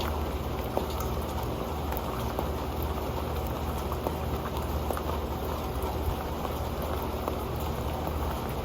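Rain falling on an old pan: a steady patter of drops with scattered sharper ticks as single drops strike it.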